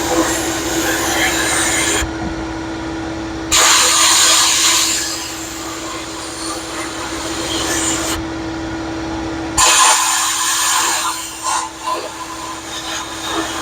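Glass-bead media blaster spraying against a rusty metal motorcycle floorboard to strip it to bare metal: a loud air-and-grit hiss that cuts out twice for a second or so and starts again abruptly, over a steady hum.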